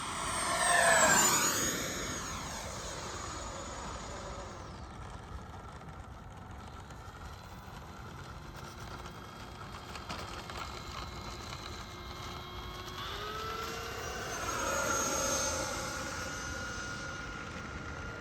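FMS Super Scorpion 90mm electric ducted fan jet on 8S power making a high-speed pass: a loud fan whine peaks about a second in and drops sharply in pitch as it goes by, then continues as a fainter steady whine. Near the end the pitch rises and it swells again on another pass.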